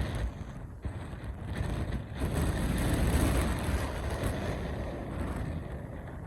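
Strong wind gusting and buffeting the microphone, a low rushing noise that swells about two seconds in, peaks, then slowly eases off.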